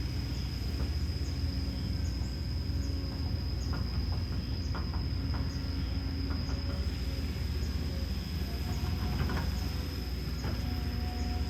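Kobelco SK210LC excavator's Hino J05E-TG turbocharged four-cylinder diesel running steadily, a low rumble under a constant high whine. Short clicks and squeaks and shifting mid-pitched tones come and go over it.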